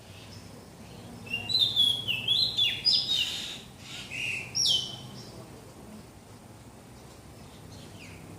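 A bird chirping: a quick run of short, sharp, high notes, several dropping in pitch, starting about a second in and lasting roughly four seconds.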